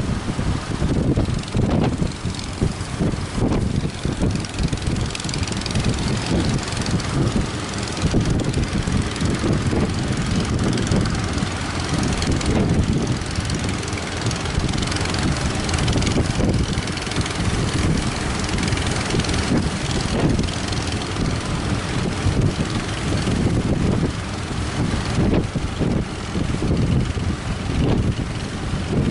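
Strong wind buffeting the microphone, mixed with the running engines of fishing boats and speedboats. The noise is continuous and gusty, heaviest in the low end.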